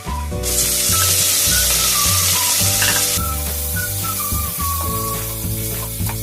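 Food frying in hot oil in a pan: a loud sizzle starts suddenly about half a second in and settles to a softer sizzle after about three seconds. Background music with a whistled melody plays throughout.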